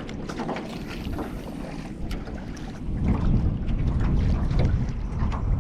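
Wind buffeting the microphone in a jon boat, a low rumble that gets stronger about three seconds in, with scattered small knocks.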